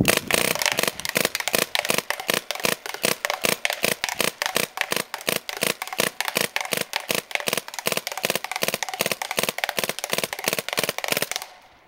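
MacDev Drone electropneumatic paintball marker firing a long rapid string of shots in three-shot burst mode, about five shots a second, stopping suddenly near the end.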